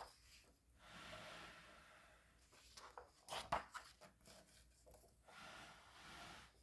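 Book pages being turned: faint paper swishes, with a few light taps and clicks around the middle.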